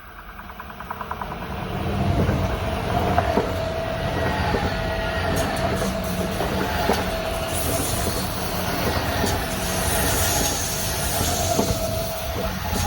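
Electric passenger train passing close by, building up over the first two seconds into a steady loud rumble, with wheel knocks over rail joints and a steady high whine running through it.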